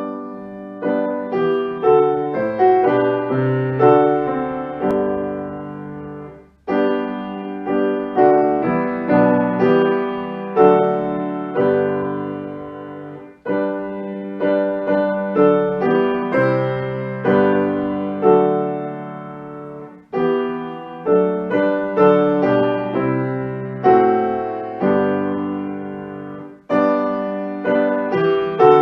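Solo piano music: notes and chords struck and left to fade, in phrases of about seven seconds, each ending in a short break.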